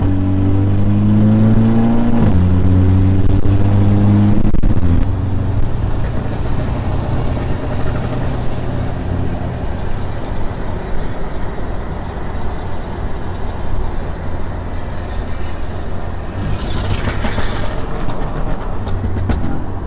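Car engine accelerating hard through the gears, its pitch climbing and dropping back at shifts about two and four and a half seconds in, then settling into steady cruising with road and tyre noise.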